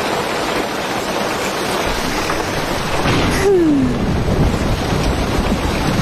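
Heavy rain with wind, a dense steady downpour that swells over the first second, with a short falling tone about three and a half seconds in.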